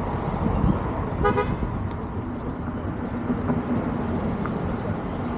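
A vehicle horn gives one short toot a little after a second in, over a steady low rumble of traffic.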